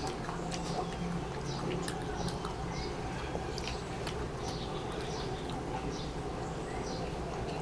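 A child chewing a softened onion ring with mouth, with soft clicks and smacks over a steady low hum, and short high chirp-like ticks several times a second.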